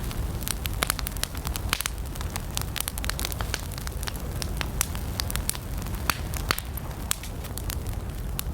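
Campfire wood burning with frequent sharp crackles and pops over a steady low rumble of flames.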